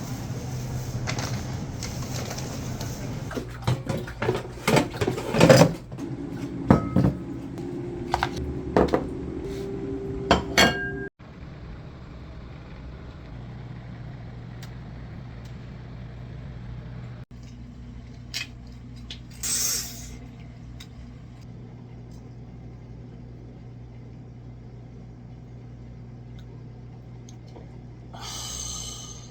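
Dishes and cutlery clinking and knocking in a quick run of sharp taps over a steady low hum, then, about eleven seconds in, only a quieter steady hum with a few scattered clicks.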